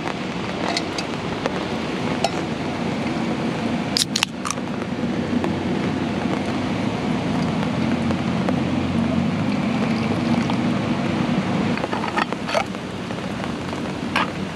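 Heavy rain falling steadily, with a few clinks and knocks of metal camping cups and a thermos being handled: one sharp knock about four seconds in and a cluster near the end.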